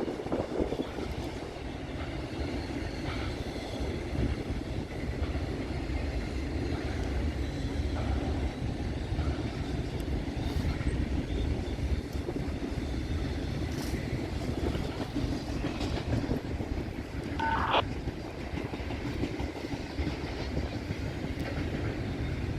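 Norfolk Southern freight train rolling past: a steady rumble of the cars going by, with faint wheel clicks and a brief high squeal about eighteen seconds in.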